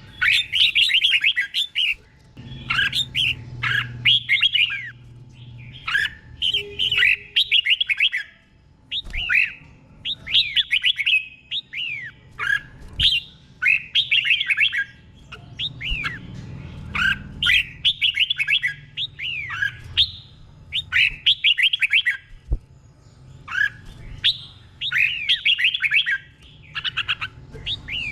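Red-whiskered bulbul singing short, bubbly whistled phrases over and over, each about a second long with brief pauses between. This is the repeated 'doubled' song style that keepers play for young cage birds to copy.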